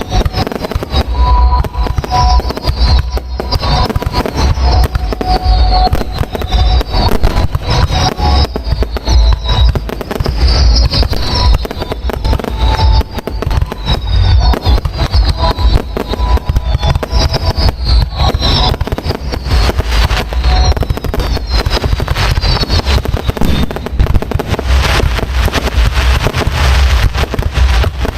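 Fireworks display at close range: a continuous barrage of rapid bangs and crackles, with repeated falling whistles through most of it. Near the end the crackling becomes denser and hissier.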